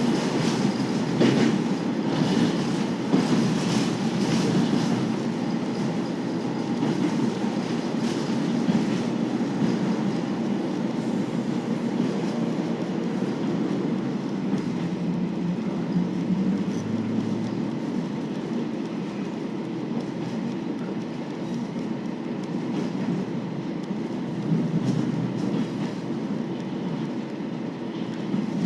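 KiHa 40 series 2000 subseries diesel railcar running at speed: steady engine and rolling noise, with wheels clicking over rail joints in the first few seconds.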